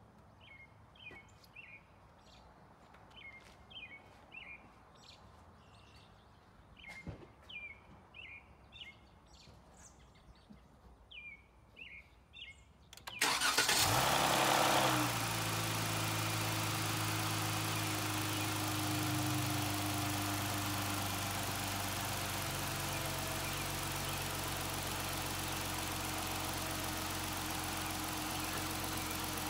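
Birds chirp in short calls. About 13 seconds in, a 2018 Dodge Challenger SXT's 3.6-litre Pentastar V6 starts with a brief flare, then settles to a steady idle. This is its first start on fresh Royal Purple oil after the oil change.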